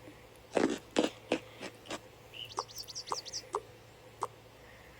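A handful of short sharp clicks, then a quick run of about eight high, rising chirps, then two more clicks near the end.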